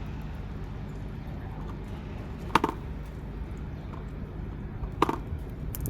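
Two sharp knocks, about two and a half seconds apart, over a steady low rumble.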